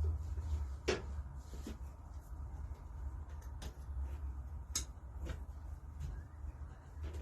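Scattered light clicks and knocks, a few seconds apart, of hand tools and metal parts being handled while an engine is dismantled, over a low steady hum.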